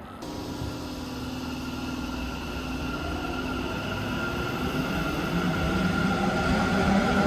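Electric train running, its sound growing steadily louder as it nears, with a few steady humming tones over the rumble.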